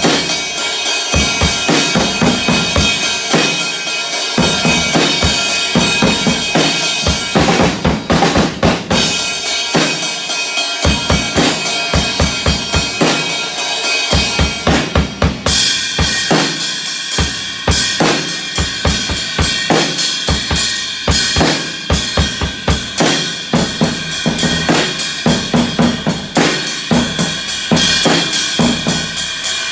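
Drum kit played in a fast, busy rhythm: rapid kick and snare strokes over a continuous high wash of cymbals.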